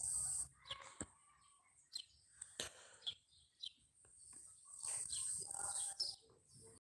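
Faint bird chirps, short and scattered, over a light hiss; the sound cuts off abruptly near the end.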